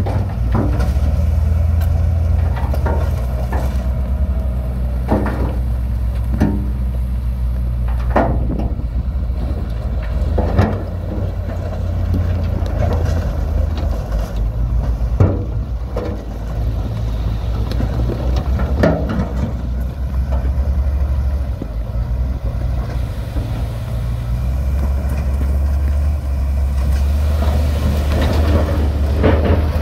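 Heavy diesel earth-moving machinery running steadily under load, with scattered knocks and clanks of stone and steel every second or two.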